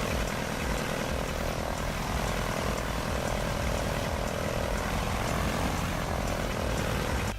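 Propeller aircraft engine running with a steady drone, with no crash or impact heard.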